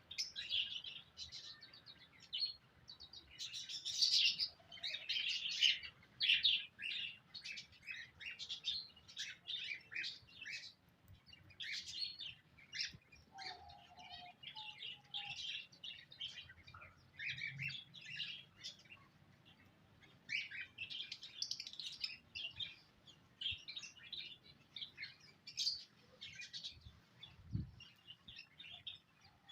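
Small cage birds chirping in a dense, continuous stream of short high calls, with a brief lower call about halfway through. A single dull low thump sounds near the end.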